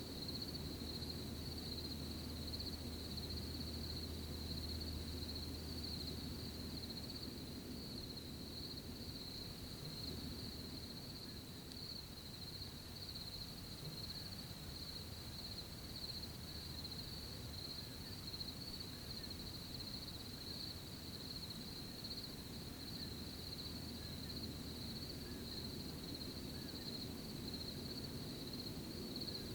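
A continuous chorus of crickets making a steady, high, shimmering trill, over a soft low rustle.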